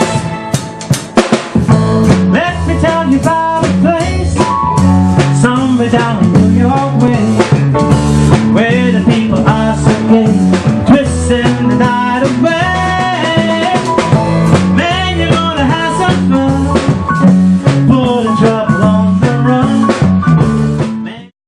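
A band playing, with drum kit, bass and guitar under a moving melody line, to a steady beat; the music stops abruptly near the end.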